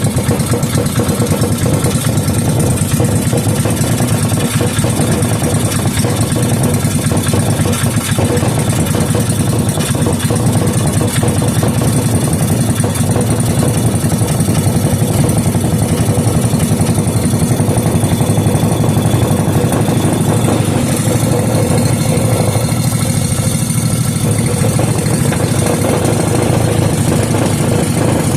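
5 hp Briggs & Stratton single-cylinder four-stroke engine running steadily on its own, freshly brought back to life, with an even, rapid firing beat.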